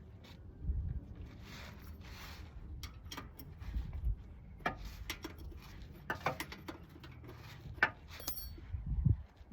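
Scattered metallic clicks and clinks with a few dull knocks: hand tools and parts being handled while working on the valves of an air-cooled VW Beetle engine, with one brief metallic ring near the end.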